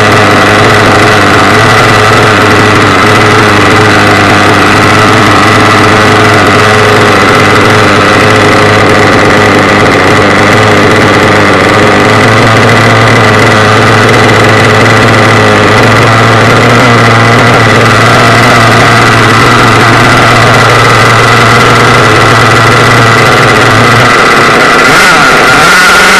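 Small nitro engine of a radio-controlled car idling steadily while it warms up after its first start. Near the end the low hum drops away and the pitch starts to climb.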